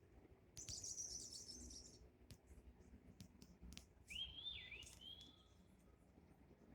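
Faint birdsong: a rapid, high twittering trill starting about half a second in and lasting over a second, then a short whistled phrase that rises and falls about four seconds in, among scattered small clicks.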